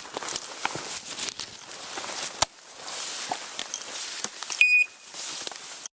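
Footsteps crunching and brushing through leaves and undergrowth, with many small snaps and crackles. About three-quarters of the way through, one short high electronic beep, typical of a bird dog's beeper collar.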